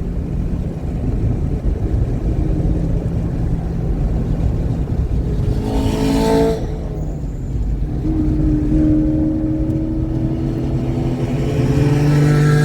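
Car engine running hard on a racetrack, with a brief sharp burst of noise about six seconds in, then a slow, steady climb in pitch as it accelerates. The engine is running cleanly without misfiring.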